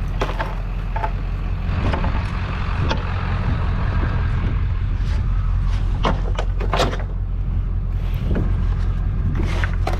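A steady low engine hum with scattered sharp clanks and knocks of scrap metal pieces being handled and knocking together.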